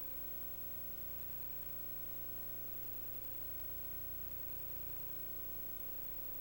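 Steady hiss with a low electrical hum and a faint steady tone, unchanging throughout, with no distinct event.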